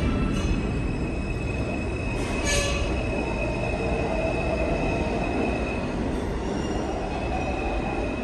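New York City subway train running past the platform: a steady low rumble with thin, high wheel squeal held over it, and a brief hiss about two and a half seconds in.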